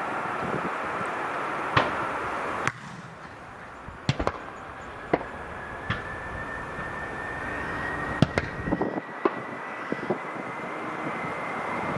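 Boeing 747-200F's Rolls-Royce RB211 engines running, with a whine that rises slowly in pitch as they spool up. Several sharp cracks come through it.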